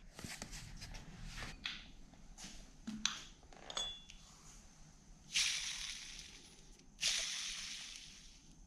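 Light clicks and knocks of small parts being handled. Then two sudden hissing bursts about a second and a half apart, each fading away over a second or so.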